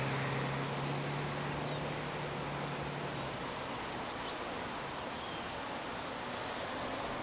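Steady outdoor background noise with a low hum that fades out about three seconds in, and a few faint high chirps near the middle.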